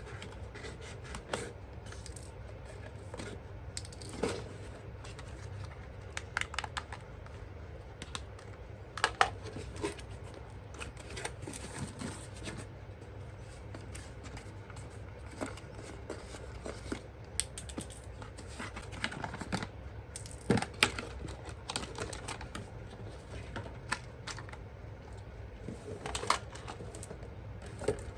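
Irregular small clicks, taps and rustling of hands handling plastic toy parts and packaging, over a steady low hum.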